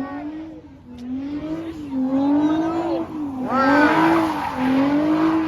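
A car's tires squealing and skidding on pavement while its engine note rises and falls about once a second, as in a spinning drift. The squeal is loudest a little past the middle.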